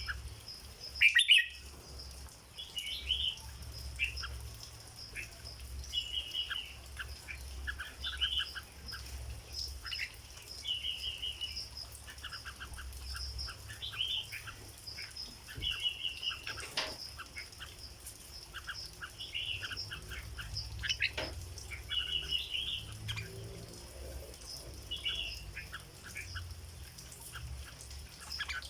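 Red-whiskered bulbul singing: short, bright warbled phrases repeated every second or two. About a second in there is a brief loud rustle or knock.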